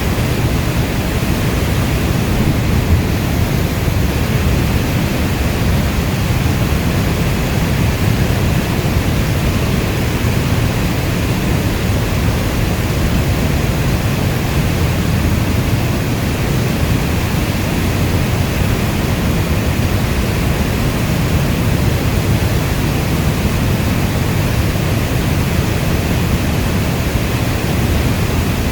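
Steady rainstorm: an even, deep rushing hiss of rain, with no thunder or single drops standing out.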